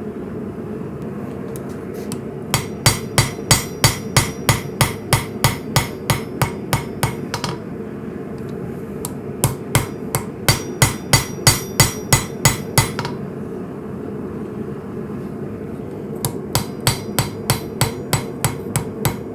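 Hand hammer striking hot coil-spring steel on an anvil while forging a knife, about three blows a second in three runs with short pauses between them. A steady low rushing noise runs underneath.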